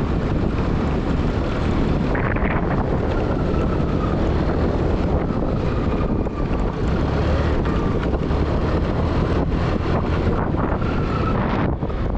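Wind buffeting the microphone over the steady running noise of a vehicle being driven.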